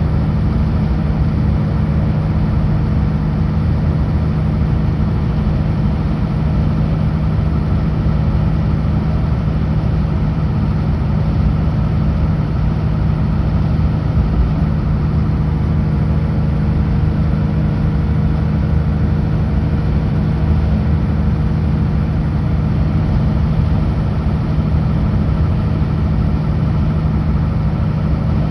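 Kenworth W900L semi truck's diesel engine running steadily at cruise with road noise, a constant low drone with no gear changes.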